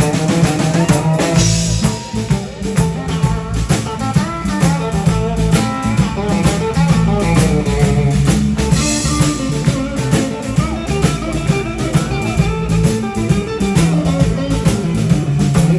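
Band playing: electric guitar over a bass line and a drum kit keeping a steady beat.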